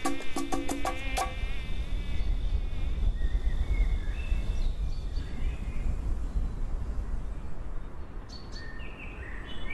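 Natural insect ambience: a steady high whine and scattered short high chirps over a strong low rumble. Percussive music strikes end about a second in.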